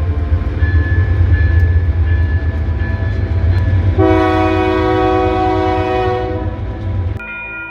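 Train rumbling with a heavy low drone, and a long horn blast starting about halfway through and lasting a couple of seconds; the sound changes abruptly to a different steady tone near the end.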